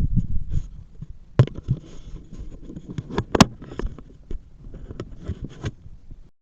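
Bicycle rolling over a rough path: a low rumble with scattered knocks and rattles. The sound cuts out abruptly near the end.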